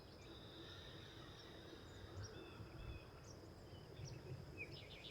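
Faint outdoor ambience: a few short, distant bird chirps over a steady high-pitched thin tone.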